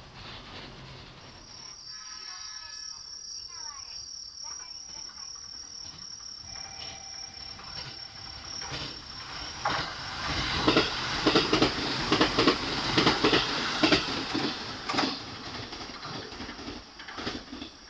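A train passing through a station, its wheels clacking rhythmically over the rail joints, loudest from about ten seconds in and then fading, over a steady high insect chirring.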